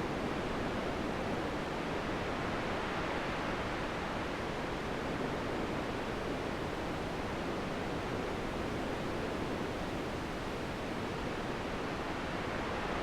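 Steady wind blowing, an even noise with no gusts or breaks.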